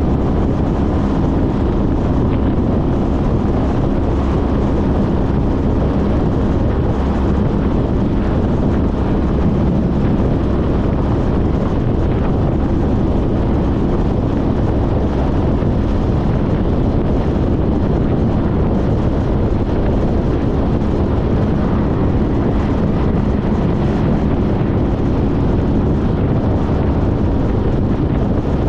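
2014 Honda CTX1300's V4 engine running steadily at road speed, with heavy wind noise on the microphone.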